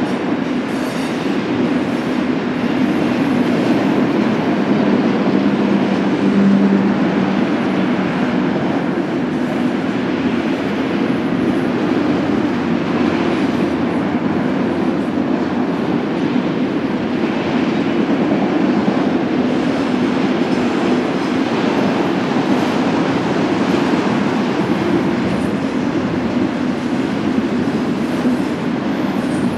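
BNSF freight train cars rolling steadily past, the continuous noise of steel wheels running on the rails.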